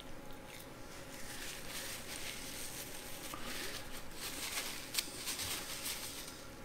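Close-miked chewing of fried chicken, with a paper napkin rustling and crinkling as greasy fingers are wiped in the second half.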